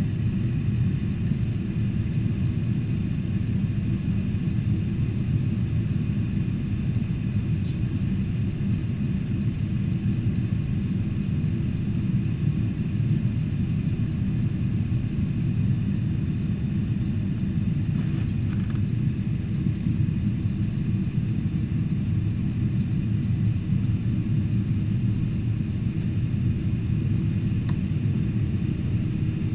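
Steady cabin rumble of a Boeing 747-400 in flight: engine and airflow noise with faint steady whining tones over it. A few faint clicks come about two-thirds of the way through.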